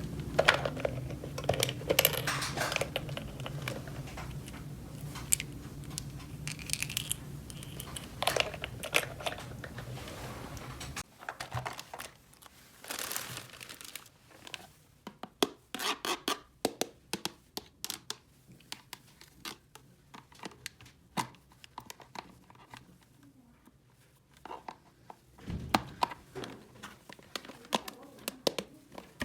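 Crinkling and tearing of packaging while small toy pieces are handled. About 11 seconds in, a low steady hum stops, and a run of light clicks and taps follows.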